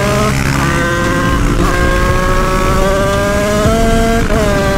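Yamaha DT's two-stroke engine with a 96 cc Bidalot kit and KRM expansion-chamber exhaust, revving high under way, its pitch climbing slowly, with a short dip in pitch near the end as the throttle or gear changes.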